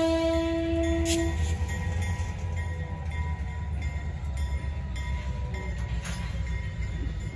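A locomotive horn holds one note and cuts off about a second in, then loaded Norfolk Southern coal hopper cars keep rolling past with a steady low rumble and a few sharp wheel clicks.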